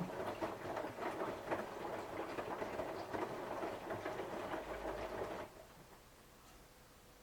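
Samsung washing machine on a 60 °C cotton cycle, its drum turning with the laundry tumbling: an uneven rumble with many small knocks. About five and a half seconds in it stops and goes quiet as the drum pauses between turns in the wash phase.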